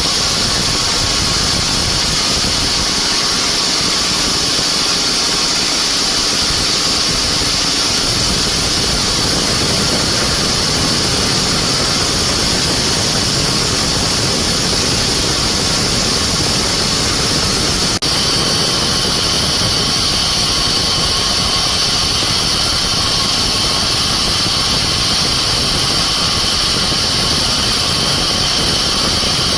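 Sawmill machinery running steadily while sawing mahogany: a continuous engine drone with a strong high-pitched saw whine. A brief break comes about eighteen seconds in, after which the whine sits a little lower in pitch.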